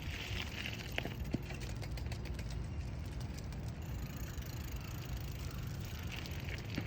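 Steady low vehicle rumble with a faint hiss, and a few light clicks about a second in and near the end.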